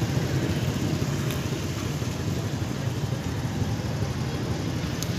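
Car engine idling steadily with a low hum.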